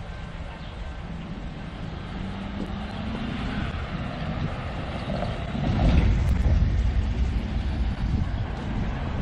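Vintage Alco FPA diesel locomotives running with a deep engine rumble, which swells much louder about six seconds in.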